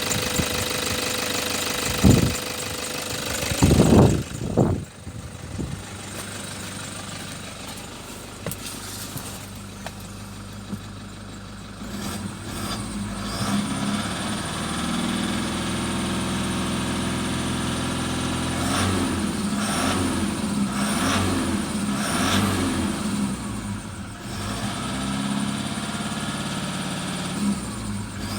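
Toyota Hilux 3.0-litre engine running. It revs up sharply twice in the first few seconds, runs quieter for a while, then settles to a louder steady run, revved up and down several times in the second half.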